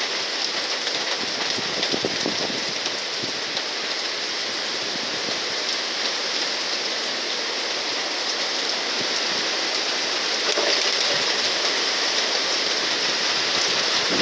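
Hurricane rain falling steadily, a little louder from about ten seconds in.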